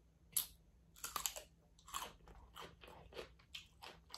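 A person chewing and biting crawfish, with a string of short, irregular crunches, the sharpest one just after the start.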